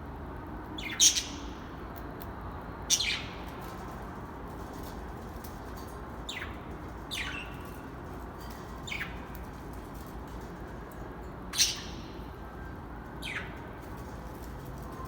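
A bird calling: short, sharp notes that drop quickly in pitch, about seven in all and repeated every one to three seconds, the loudest about a second in and near eleven seconds.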